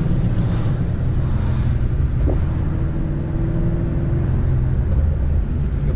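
Supercharged 6.2-litre V8 of a second-generation Cadillac CTS-V running at low speed, a steady low rumble.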